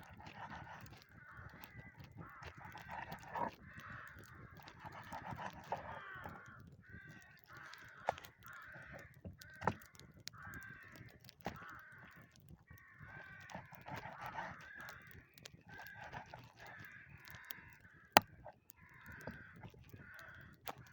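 Many birds calling over and over in short, overlapping calls, with a few sharp clicks in between; the loudest click comes near the end.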